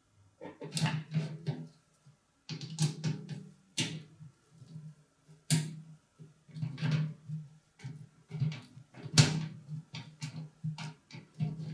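Irregular clicks, knocks and rattles of plastic fans and metal parts being handled and fitted into a PC case, in bursts with short pauses between; the loudest knock comes about nine seconds in.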